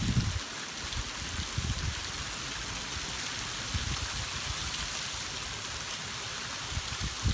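Heavy rain pouring down in a steady hiss, with gusts of wind buffeting the microphone in low rumbles.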